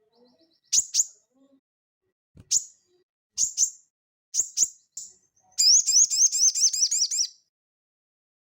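Sogon (little spiderhunter) singing: sharp high chips, mostly in pairs, then past the middle a rapid trill of about a dozen looping, up-and-down notes lasting under two seconds.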